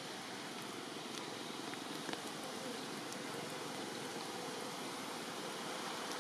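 Steady rain falling, an even hiss with a few faint ticks of drops, one a little after two seconds in.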